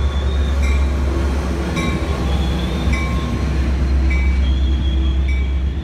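Metrolink train led by an F59PHI diesel locomotive pulling in: a loud, steady, deep engine rumble, with a bell ringing about once a second.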